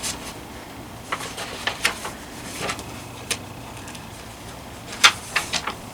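Picture-book pages being handled and turned: a scattering of short rustles and taps, the loudest about five seconds in.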